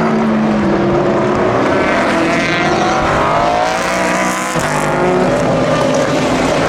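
Racing car engines at speed, more than one engine note overlapping, pitch rising and falling as the cars pass; a new engine note takes over about four and a half seconds in.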